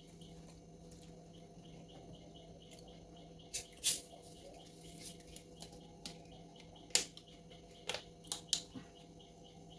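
Eating sounds: several short, sharp clicks and smacks, the loudest about four and seven seconds in and a quick cluster near the end, over a faint steady hum.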